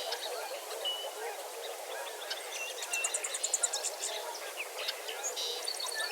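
Dense dawn chorus of many birds: a constant chatter of distant waterfowl calls, with songbird chirps and whistles over it and a fast high trill of about a dozen notes around three seconds in.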